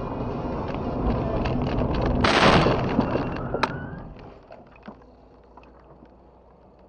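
Car road and engine noise, then a loud crash impact a little over two seconds in, followed by scattered clattering of debris as the noise dies down.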